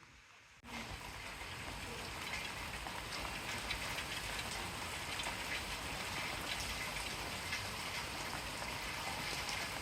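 Steady rain falling, with scattered individual drop hits; it comes in suddenly under a second in.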